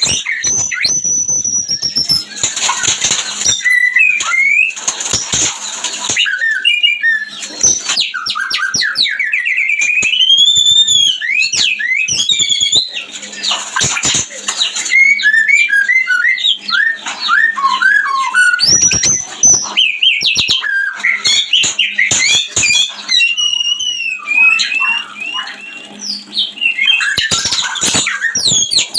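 White-rumped shamas (murai batu) singing in mating condition: loud, varied whistled song with rising and falling notes and rapid runs, broken by harsh chattering bursts. It is the kind of mating-shama recording played as a lure to stimulate caged birds.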